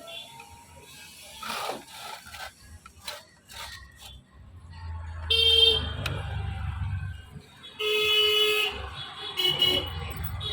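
Road traffic: vehicle horns honking three times, one short and one longer blast, then a brief one near the end, over the low rumble of passing engines.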